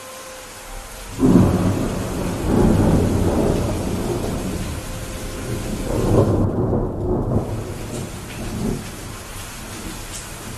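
Steady rain with a clap of thunder about a second in, its low rumble swelling twice more and then fading away.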